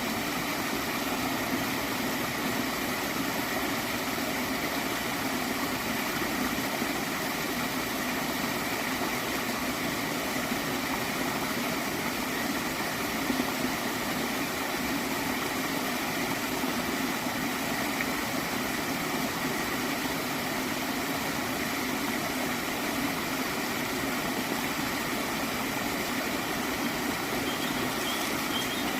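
Gently flowing water stream, gurgling steadily without a break.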